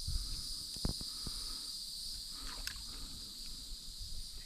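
Steady high-pitched insect chorus droning without a break, with low rumbling noise underneath and a couple of faint knocks about a second in.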